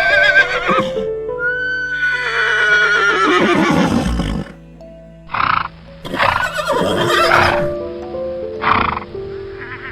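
Horse whinnying several times over background music: a long call about two seconds in wavers and falls in pitch, with shorter calls before it and after it.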